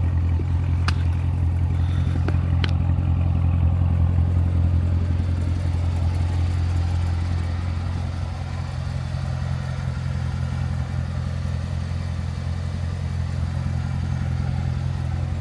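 Chevrolet Corvette C7's 6.2-litre V8 idling steadily while warming up from a cold start after a week of sitting. Two faint clicks come in the first three seconds.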